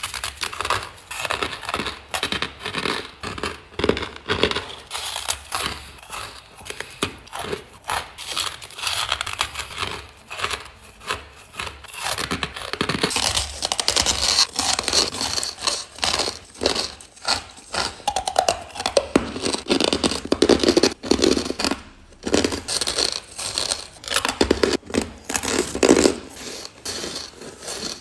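Close-miked crunching and chewing of ice, a dense run of crisp crunches and crackles without a break.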